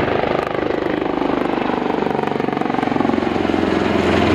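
A pair of AgustaWestland Wildcat HMA2 helicopters flying a low display, their rotors making a rapid, even beat over the running turboshaft engines. The sound swells a little near the end.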